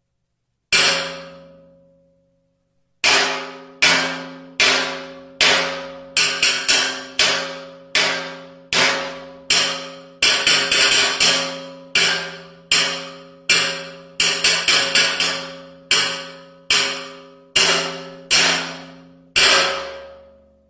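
Glass smashing again and again, each crash sharp and followed by a ringing tail that dies away in about a second. One crash comes near the start, then after a short pause about thirty more follow, some bunched two or three in quick succession.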